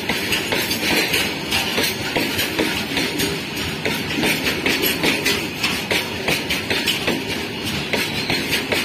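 Freight train of open wagons passing close by at speed: the wheels clatter over the rail joints in a steady, repeating clickety-clack over the continuous running noise of the train.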